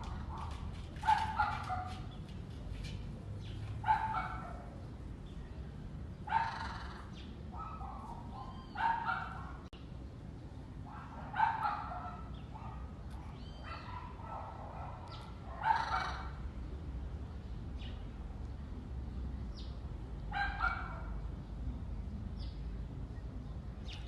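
Short, sharp animal calls repeated about eight times at irregular intervals of a few seconds, over a steady low rumble.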